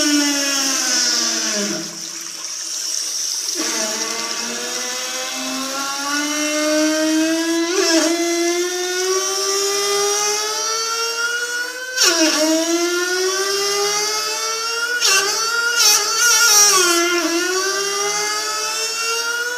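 A high, whining tone with many overtones in a small, echoing room. Its pitch climbs slowly and drops suddenly twice, like a Formula 1 engine revving up through the gears.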